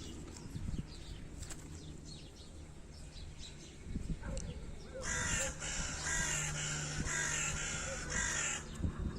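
A flock of birds calling: scattered faint calls, then a dense run of harsh calls from about five seconds in until shortly before the end.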